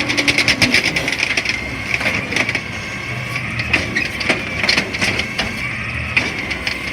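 CNG garbage truck handling a load of refuse: many sharp cracks and crunches of trash being broken and crushed, over the running engine and a steady high whine of hydraulics.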